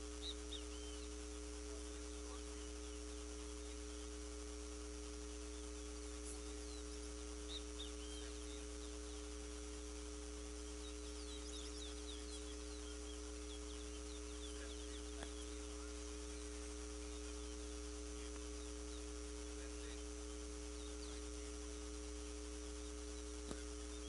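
A steady electrical-sounding hum with several fixed tones runs throughout. Over it come faint, brief high chirps and whistle notes from caged towa-towa birds: a few near the start, some around 6 to 8 seconds, a quick run of them about halfway, and a few more near the end.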